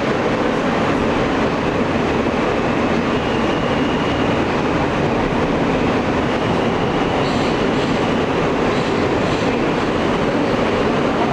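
R160A subway car running at speed through a tunnel, heard from inside the car: a steady rumble of wheels on the rails, with a faint high whine that comes and goes.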